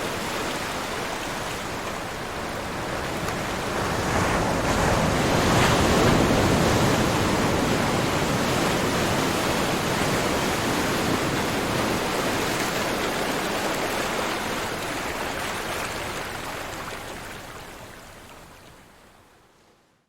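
Ocean waves breaking and washing on a shore: a steady rush of surf that swells about four to six seconds in, then slowly fades away to nothing near the end.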